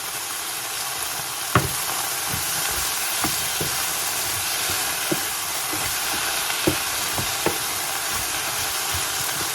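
Green beans and curry paste sizzling in hot oil in a pan, a steady hiss, with a cooking utensil knocking against the pan now and then as they are stirred.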